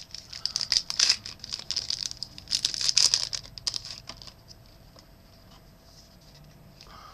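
A trading-card pack wrapper being torn open and crinkled, a dense crackling rustle that dies away about four seconds in.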